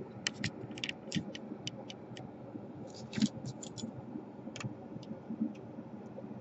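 Scattered light clicks and taps from handling the parts of a disassembled laptop around its DC power jack, bunched in the first second and again about three seconds in.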